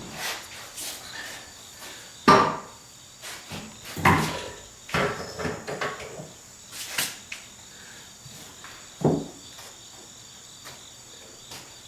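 Parts and tools being handled and set down during car restoration work: a series of separate knocks and clunks, the loudest about two and four seconds in, with a last one near nine seconds.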